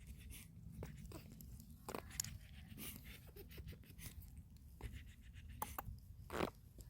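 Small dog moving about: faint, irregular clicks and rustles over a low steady hum.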